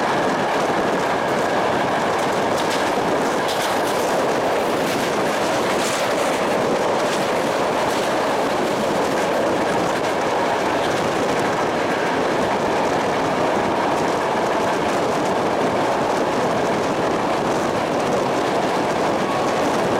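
Passenger train running at speed, heard from beside the carriage: a steady rolling noise of wheels on rails, with a few faint clicks as the wheels pass over rail joints and points.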